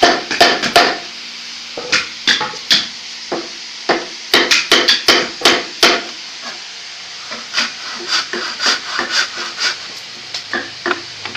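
Hammering on wood: sharp single blows in quick runs with short pauses between them. The blows in the latter part are somewhat softer.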